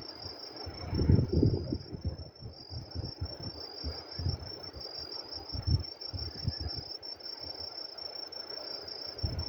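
Night insects chirping in a steady, high-pitched, pulsing trill. Low thumps and rumbles come and go beneath it, the loudest about a second in.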